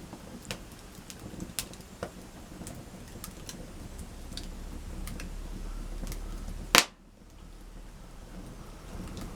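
Campfire of burning wood crackling, with scattered sharp pops and one much louder crack about seven seconds in.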